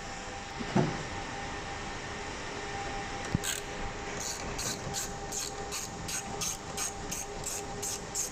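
A hand screwdriver working a screw loose: a knock about a second in, then, from about halfway, a steady ratcheting of short clicks, three to four a second, over a faint steady hum.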